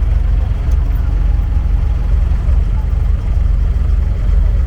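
Boat engine running steadily, a constant low rumble with no change in speed.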